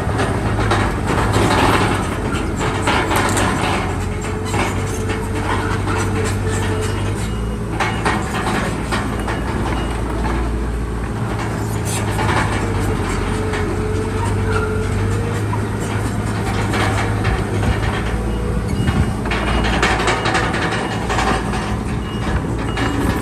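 Crawler bulldozer's diesel engine running under load, with the clatter of its steel tracks and a thin squeal now and then. The engine note changes about seven seconds in.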